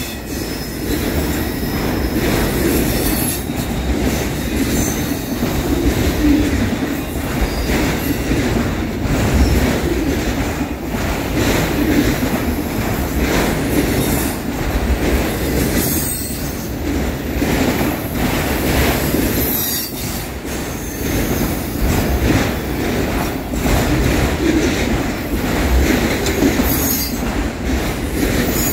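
Freight train of intermodal well cars and autorack cars rolling past: a steady rumble of steel wheels on rail, with a few brief dips as the gaps between cars go by.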